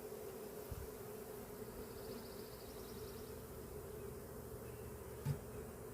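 Swarm of honeybees buzzing steadily around opened hive frames, with one short knock about five seconds in.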